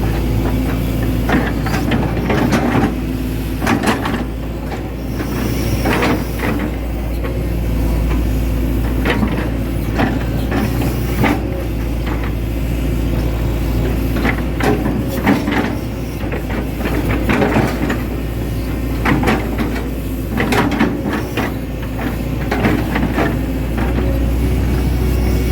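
Hitachi Zaxis 110 hydraulic excavator's diesel engine running steadily, with repeated irregular knocks and clatters from the machine as it works.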